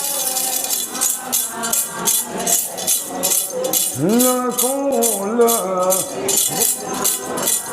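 Ponung dance song: metal jingles shaken in a steady rhythm, with one voice singing a drawn-out wavering line in the middle.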